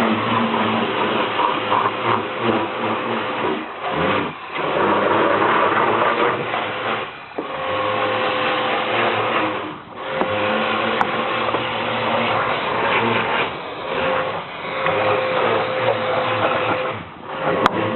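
Kärcher pressure washer running: its motor and pump drone steadily under the hiss of the spray, dropping away briefly about five times as the trigger is let go.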